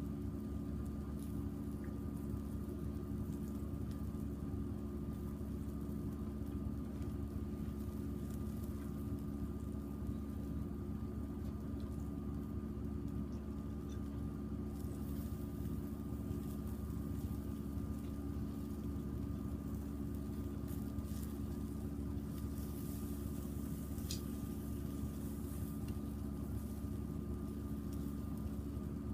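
Steady low mechanical hum holding several constant tones, unchanging throughout, with a few faint ticks.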